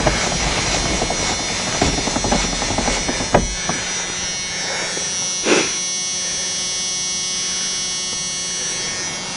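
A steady machine buzz with a thin high whine, with a few short knocks about two, three and a half and five and a half seconds in.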